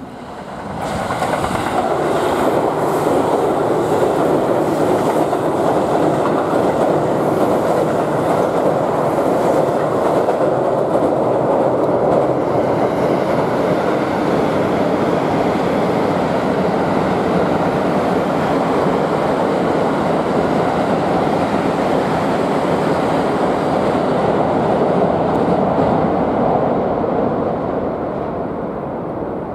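Joban Line electric commuter train crossing a steel truss railway bridge: a loud, continuous rumble of wheels on rails and bridge that builds up about a second in, holds steady, and eases off near the end.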